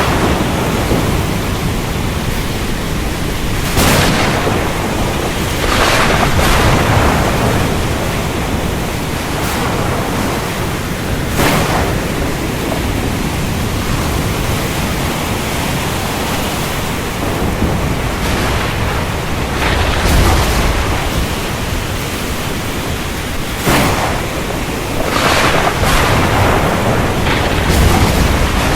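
Steady heavy rain during a thunderstorm, with sharp cracks of thunder several times and a low rolling rumble about two-thirds of the way through.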